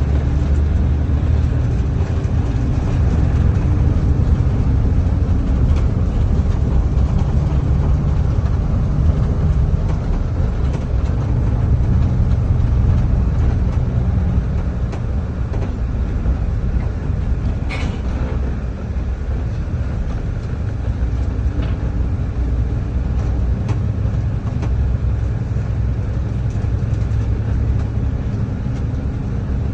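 Steady low rumble with a faint hum running through it, and a brief sharp click about eighteen seconds in.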